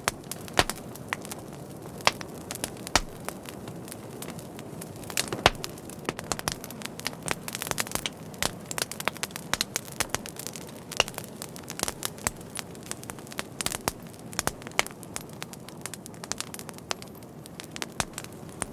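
Wood fire crackling: irregular sharp pops and snaps, thicker in the middle stretch, over a steady soft hiss of burning.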